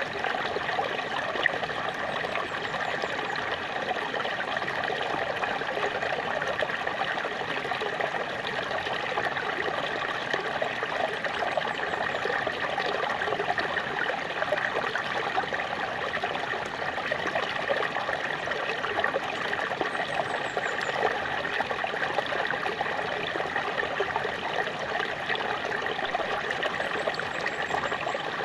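Small waterfall: a steady rush of falling, splashing and trickling water that stays even throughout.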